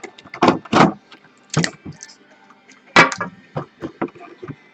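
A sealed trading-card box's packaging being handled and torn open: a few short, irregular crackles and tears, the sharpest about three seconds in.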